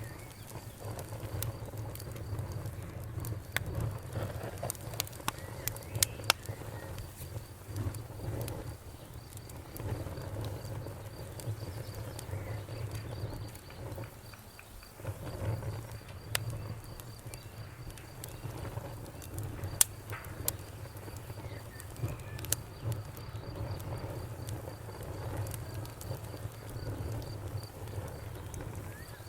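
Fire crackling: a steady low rumble of flames with scattered sharp pops and snaps, a few louder pops about six seconds in and again near twenty seconds in.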